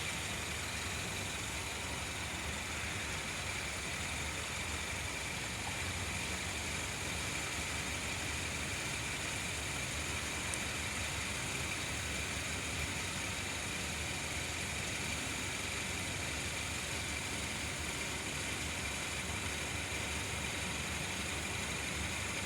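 Northern Ireland Railways Class 3000 diesel multiple unit idling steadily while standing at the platform: an even engine hum with a few steady high tones.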